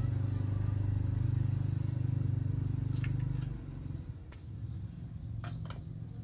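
Honda GX200 single-cylinder engine running with an even, rapid beat; its level drops about three and a half seconds in and it carries on more quietly, with a few sharp metallic clicks near the end.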